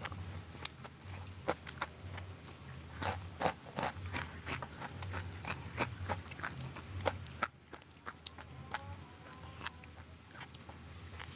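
Close-miked chewing and crunching of crispy fried food, a run of sharp crunchy clicks and wet mouth sounds, pausing briefly a little past the middle.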